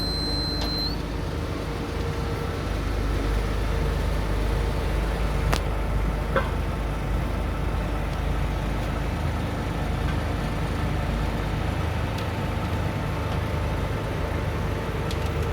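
Heavy construction machine's diesel engine running steadily, with a couple of light clanks about five and six seconds in.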